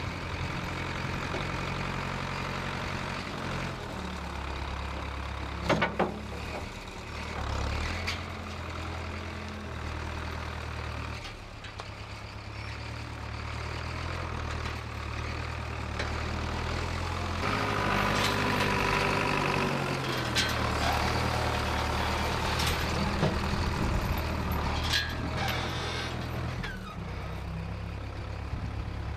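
1968 Case backhoe's engine running and working, its speed stepping up and down several times. Sharp knocks come about six seconds in, and a higher whine joins the engine a little past the middle.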